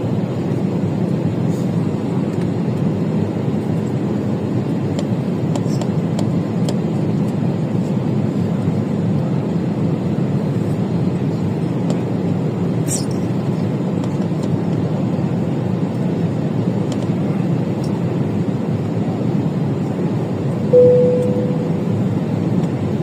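Steady low rumble of a moving vehicle, unchanging throughout, with a short single tone near the end.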